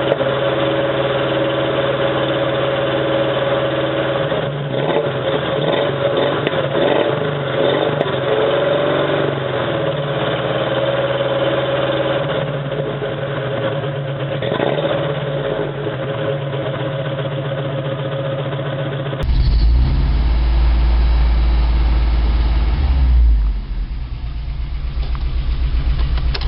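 1987 Toyota 4Runner's 22RE four-cylinder engine running rough and misfiring, with a few revs partway through and a heavier low rumble after a sudden change about two-thirds of the way in. The misfire comes from spark plugs fouled by burning antifreeze, through a failed head gasket and a cracked cylinder head.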